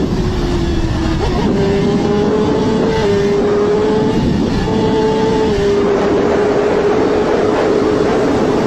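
Racing motorcycle engine held at high revs, its pitch steady with a short dip and jump back up about a second in and small steps a few more times, over heavy road and wind noise.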